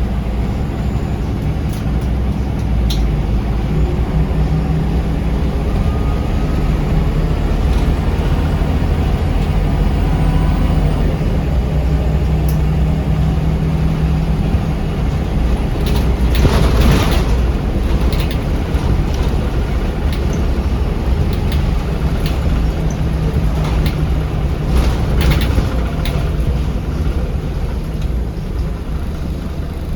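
Scania L94UB bus's diesel engine and drivetrain running steadily as heard from inside the bus, with a burst of hissing about halfway through.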